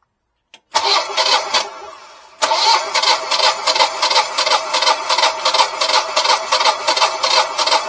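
Generac Guardian 4456 standby generator's engine being cranked by its electric starter, with a rapid, even chugging of about six strokes a second. It starts with a click, cranks briefly, eases off for a moment, then cranks hard and steadily again.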